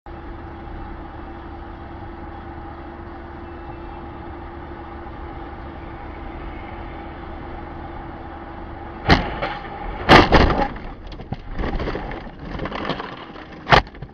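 A vehicle's engine and road noise droning steadily. About nine seconds in come several loud crashing impacts with clattering, and one more sharp bang near the end: a road crash.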